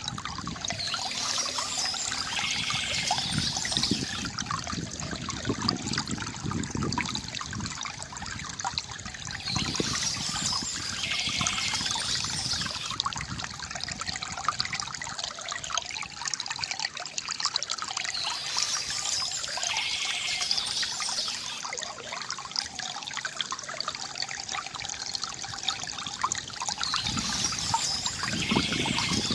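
Water trickling and gurgling steadily from a bamboo fountain, with a brighter, higher spell recurring about every nine seconds.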